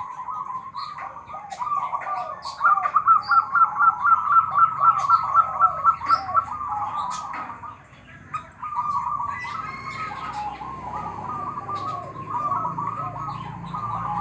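Zebra dove (perkutut) cooing among other birds chirping. A fast run of repeated notes, about two to six seconds in, is the loudest part, and there is a brief lull about eight seconds in.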